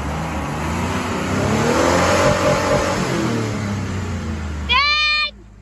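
A vehicle engine revving, its pitch rising and then falling. Near the end comes a short, high-pitched squeal that drops in pitch, and then the sound cuts off abruptly.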